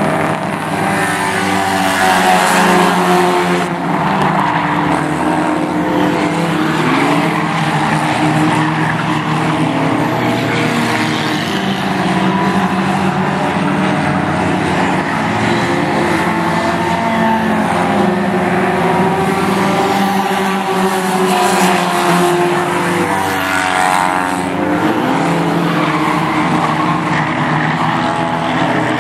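Several race car engines running together at racing speed, their pitches rising and falling as the cars pass and change speed.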